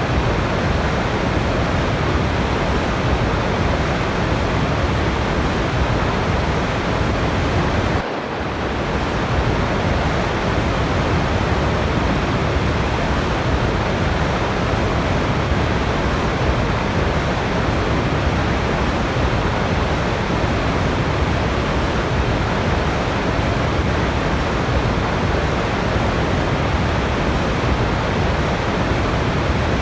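Waterfall rushing in a steady, dense roar of falling water. The sound dips briefly about eight seconds in, then carries on unchanged.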